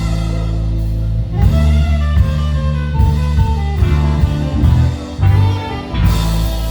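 Live band playing an instrumental: electric bass carrying strong low notes over drums, with guitar and keys above.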